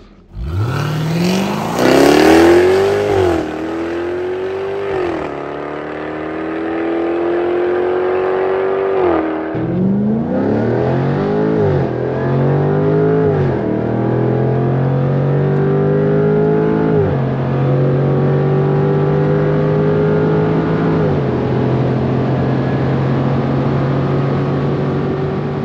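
Jaguar F-Type R75's 5.0-litre supercharged V8 under hard acceleration from a launch. The engine note climbs in each gear and drops back at each upshift of the 8-speed automatic. About nine and a half seconds in the pull briefly breaks off, then the car accelerates again through several more upshifts and settles into a steady drone near the end.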